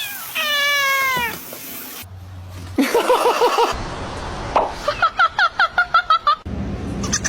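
A domestic cat making one long falling meow, then two quick runs of short chirps, about five and then about ten in a row.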